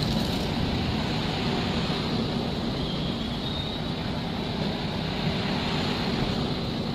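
Train running: a steady rumble with rail noise.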